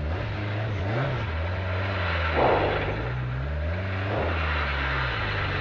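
Peugeot 205 rally car's engine running as it is driven, heard in the cabin, its pitch rising and falling with the revs, with two short rushes of noise about two and a half and four seconds in. The crew say the clutch is slipping and take it for a dead clutch or release bearing.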